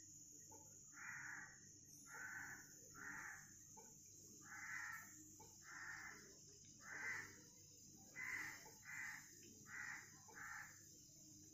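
Faint bird calls: about ten short, harsh calls of about half a second each, unevenly spaced and some coming in pairs, over a steady faint high hiss.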